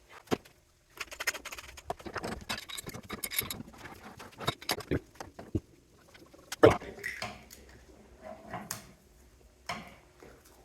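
Metal parts being handled during hand dismantling of a cooling unit: irregular clinks, scrapes and knocks, with one loud knock about two-thirds of the way through.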